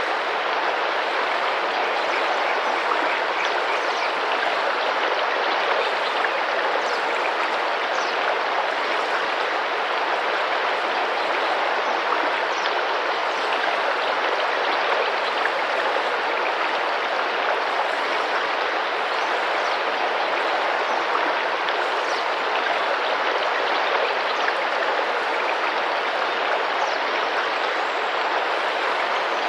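Tropical rainforest river running over rocks: a steady, even rush of flowing, splashing water.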